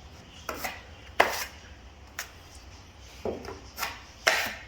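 Metal drywall knife working setting-type joint compound, with about six sharp clacks and short scrapes of the blade against the mud pan and wall. The loudest come about a second in and near the end.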